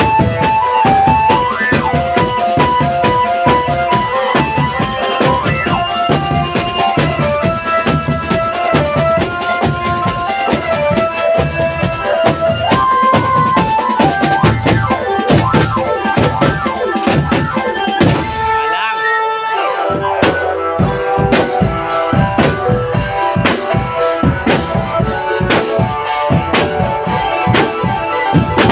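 Marching drum band playing: dense drumming under a melody line. About two-thirds of the way through, the drums break off for a couple of seconds with only a few held notes, then come back in.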